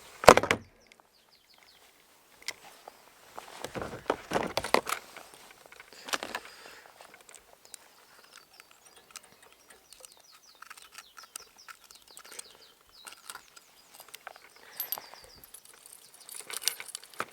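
Intermittent knocks, clicks and light clinking, loudest about four to five seconds in, over faint bird chirping.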